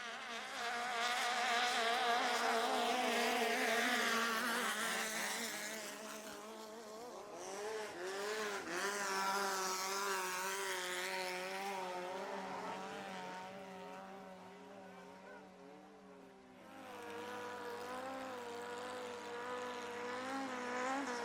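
Thai longtail racing-boat engines running at high revs, the pitch wavering and shifting as the boats race. The sound is loudest in the first few seconds, swells again in the middle, and drops low about three-quarters through before a steadier engine note carries to the end.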